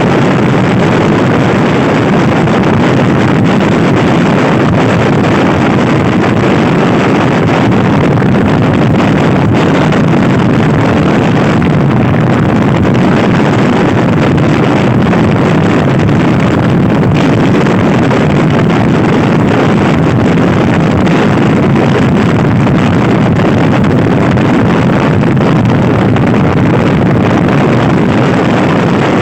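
Loud, steady wind rush on the microphone of a Honda Scoopy-i scooter being ridden hard, with the scooter's running buried in it.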